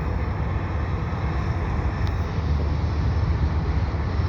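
A freight train rolling past with a steady low rumble.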